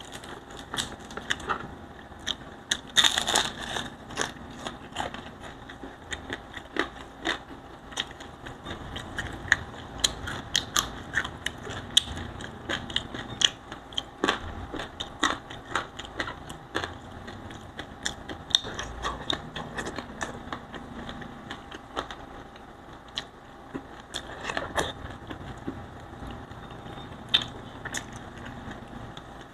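Close-up eating sounds: chewing and crunching fried tilapia, with fingers tearing the fish and picking at its bones. A steady run of sharp, irregular clicks and crackles.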